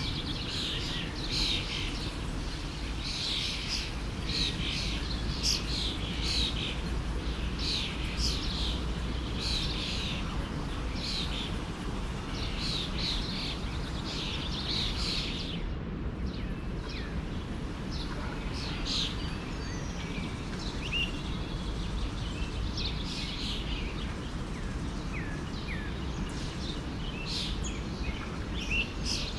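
Small forest birds chirping and singing in quick runs of short high calls, sparser in the second half, over the steady rush of a stream.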